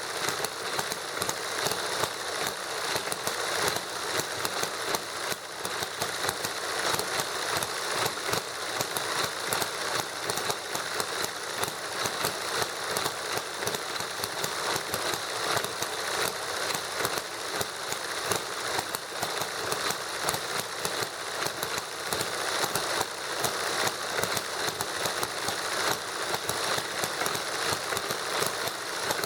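Small model hit-and-miss gasoline engine running together with a model Stirling engine, giving a fast, steady clatter of firing strokes and rattling parts.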